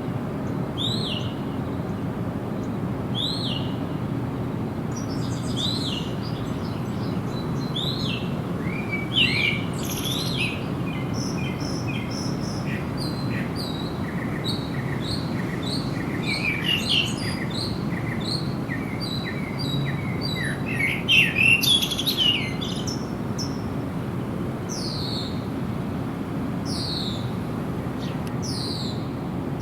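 Wild birds singing. One bird repeats a short downward-sweeping chirp about once a second. From about five seconds in until past twenty seconds, other birds join with quicker, busier chirps and trills. A steady low hiss of background noise runs underneath.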